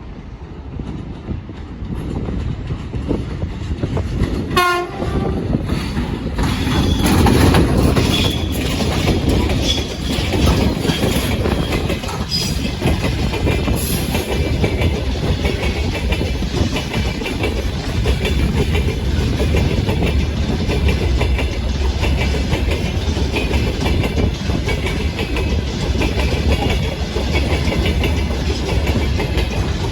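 VL80S AC electric locomotive gives a short horn blast about four and a half seconds in, then it and its freight train pass close by, with wagon wheels clattering steadily over the rail joints for the rest of the time.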